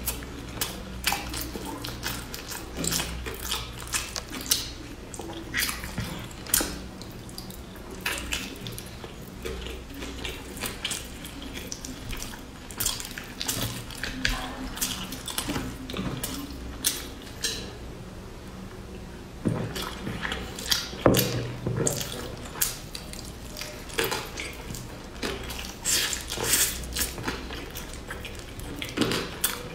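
Close-miked chewing and wet mouth sounds of a person eating sticky rice. Short smacks and clicks come at irregular intervals, with a louder cluster about two-thirds of the way through, over a faint steady low hum.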